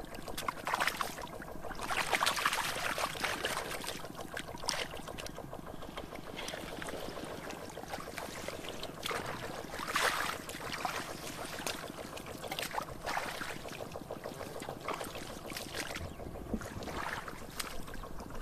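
Water sloshing and splashing in irregular bursts, loudest about two seconds in and again about ten seconds in.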